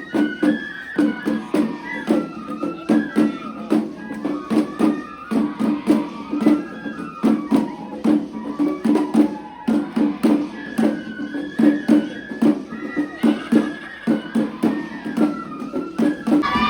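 Japanese festival music (matsuri-bayashi): a high flute melody moving in short stepped notes over quick, steady drum strikes, several to the second.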